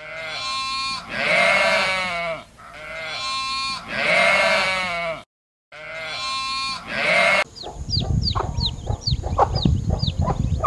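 Goat bleating: the same long, wavering call is repeated three times. About two-thirds of the way through it cuts to chickens clucking, many short, quick calls over a rustling background.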